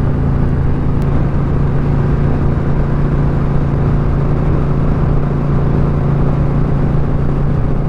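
Motorcycle engine running steadily at cruising speed, its note holding one pitch, over a constant low rumble of wind and road noise.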